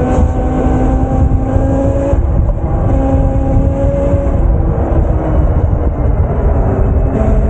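Electric bike motor whining under throttle while riding, its pitch creeping up and then cutting out and returning as the rider eases off and back on. Heavy wind rush on the microphone runs under it.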